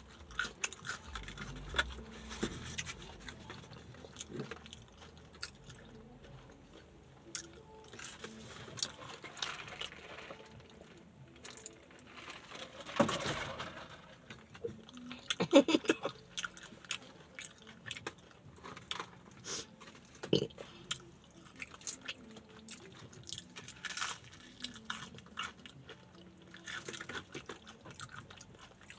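Close-up chewing and crunching of crispy fried chicken, with many small crisp clicks all through. A couple of louder noises come about halfway through.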